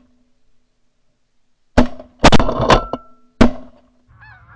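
Volley of shotgun blasts from several hunters, about five shots fired quickly, starting about two seconds in. Geese begin honking faintly near the end.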